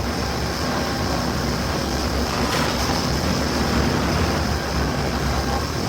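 Steady factory machinery noise: a constant low rumble with an even hiss over it, unbroken throughout.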